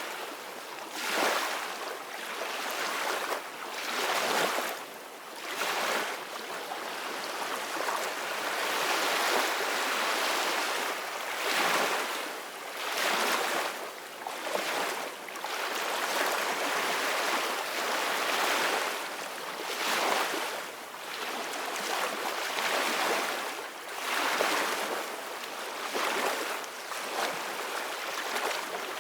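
Ocean waves breaking on a shore, a continuous hiss of surf that swells and falls back every few seconds.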